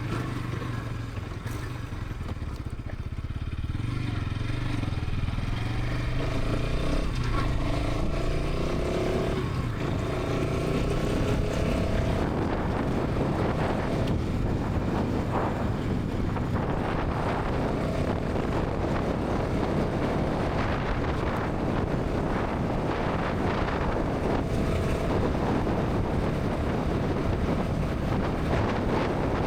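Bajaj Pulsar NS 200's single-cylinder engine and exhaust running at highway speed. The engine pitch climbs with two short breaks in the first half. From about twelve seconds in, wind rushing over the microphone grows and covers much of the engine.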